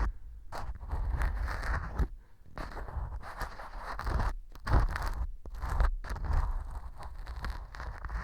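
Ear pick scraping and crunching at dry baked wheat gluten (fu) glued as fake earwax inside a transparent ear model, recorded close to the microphone. The glue has set the fu hard, so the strokes are gritty scrapes. The scraping comes in strokes of a second or two, with brief pauses between them.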